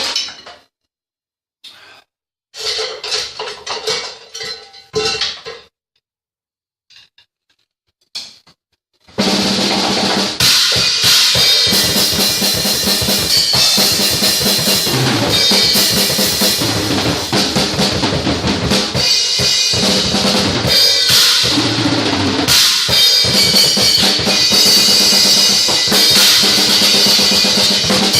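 Ten-piece Pearl Export drum kit with cymbals: a few scattered hits over the first several seconds, then about nine seconds in, continuous full-kit playing with bass drum, snare and cymbals.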